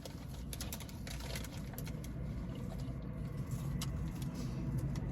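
Close-miked crunching of a crispy fried taco being chewed: a run of sharp little crackles in the first second and a half and another near four seconds, over a low steady rumble.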